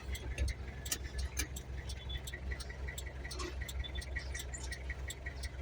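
Truck engine running with a low, steady rumble, heard from inside the cab, with a fast, even ticking and a few small clicks and rattles over it.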